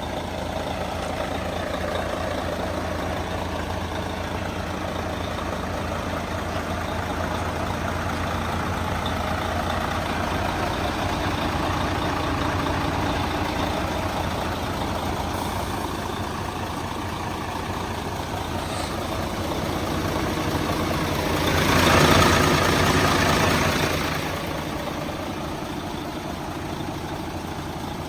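Mercedes-Benz Actros 1846 truck's V6 diesel engine idling steadily, with a louder rush of noise for about two seconds roughly three quarters of the way through.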